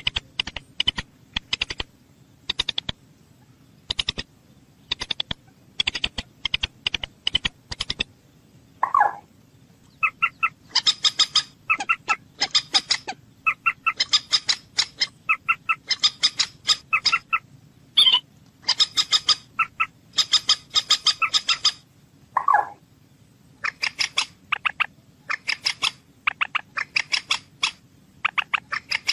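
Bird calls: rapid series of short, sharp notes repeated in quick clusters, with a couple of lower, longer calls in between.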